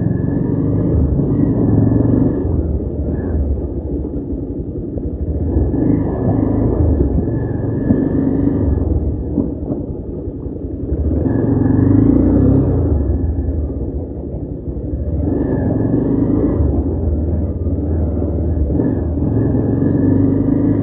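Motorcycle on the move: engine and low rumble of riding, swelling and easing in loudness every few seconds.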